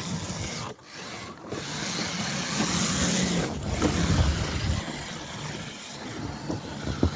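Electric RC crawler trucks driving over snow and ice, a steady run of motor and tyre noise that dips briefly twice about a second in.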